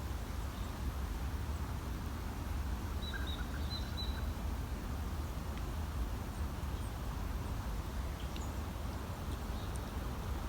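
Outdoor ambience: a steady low rumble, like wind on the microphone, with a few short, faint bird chirps about three to four seconds in and scattered small high calls later.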